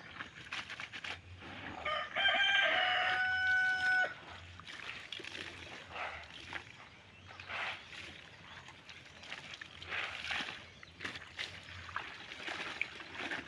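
A rooster crows once, about two seconds in, lasting about two seconds and ending on a long held note.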